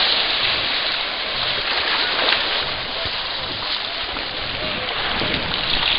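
Steady rushing of water, with faint voices in the background.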